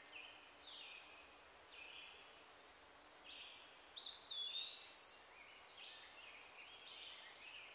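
Several birds calling: a busy run of short chirps and falling notes. About four seconds in comes one louder whistled call that drops slightly in pitch and holds for about a second.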